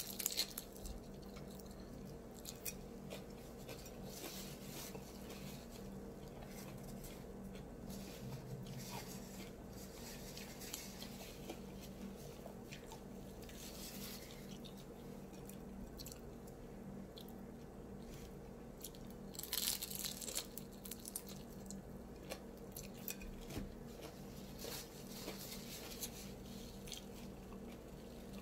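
A person chewing and biting into a fried egg roll: soft crunching and mouth sounds, with a louder run of crunches about two-thirds of the way through.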